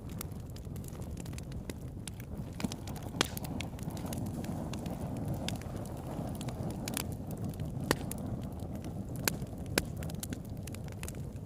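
Wood campfire burning: a steady low rumble of flame with irregular sharp crackles and pops, a few of them louder.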